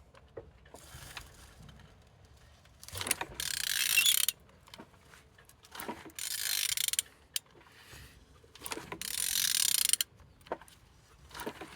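Ratchet wrench turning a used engine over by hand at the crankshaft, in three strokes of about a second each with quiet pauses between. The engine turns freely and is not seized.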